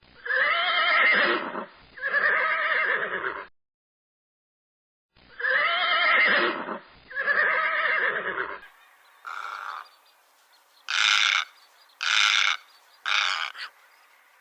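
Animal calls: two long calls, repeated the same way after a pause, then a different recording with four short, sharp calls near the end.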